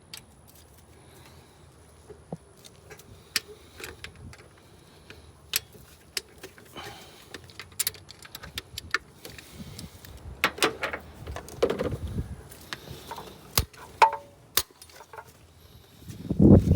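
Scattered metallic clicks and clinks of hand tools and small parts being handled under the hood, with some rustling and scraping. A loud low rumbling noise starts near the end.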